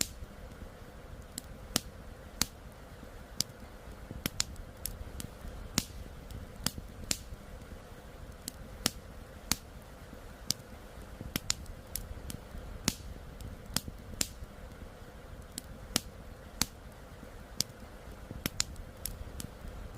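Wood campfire crackling: irregular sharp pops and snaps, a few a second, over a steady low hiss.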